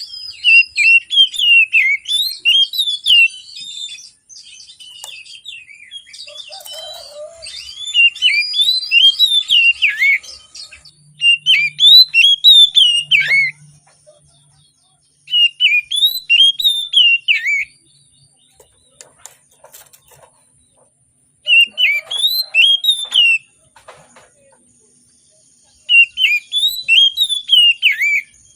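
Oriental magpie-robin (kacer) singing in loud, repeated phrases of rapid whistled notes that rise and fall, about six phrases of some two seconds each with short pauses between.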